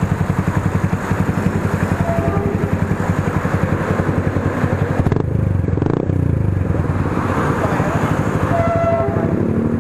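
Motorcycle with an aftermarket full-system exhaust idling, a steady, even low pulsing from the exhaust.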